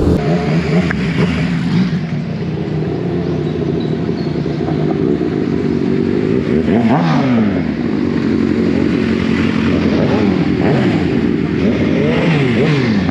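Motorcycle engines running and revving, the pitch rising and falling several times, with a marked swing about seven seconds in and more toward the end.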